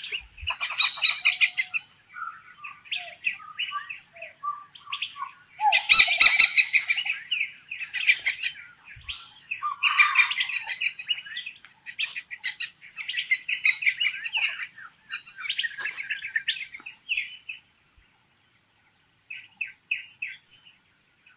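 Songbirds chirping and calling in quick, overlapping phrases, with one louder burst about six seconds in. Near the end a single short chirp repeats about three times a second.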